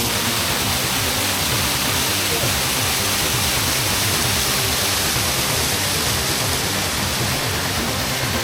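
Steady rushing of a waterfall, with background music underneath.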